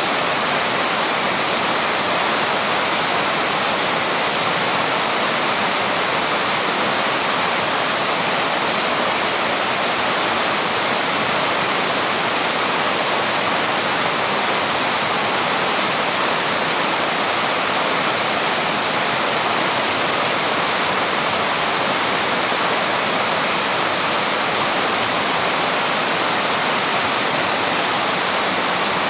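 Small waterfall pouring steadily: a loud, even rush of falling water, without change or pause.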